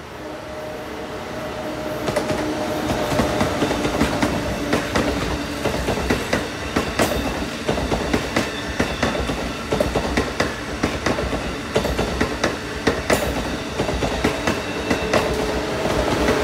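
Amtrak Acela Express trainset passing at restricted speed on jointed track. It grows louder over the first couple of seconds, then its wheels clack over the rail joints in a steady clickety-clack above the rumble of the passing cars.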